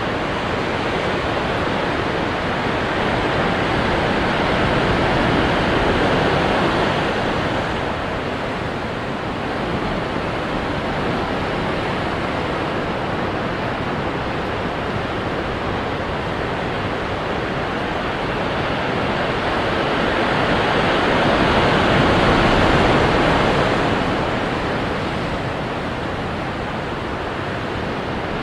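Ocean waves crashing onto rocks: a steady wash of surf that swells louder twice, about five seconds in and again a little after twenty seconds, then falls back.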